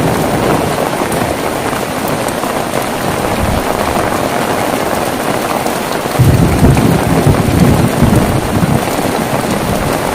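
Heavy rain falling steadily. About six seconds in, a low rumble of thunder comes in and lasts a few seconds.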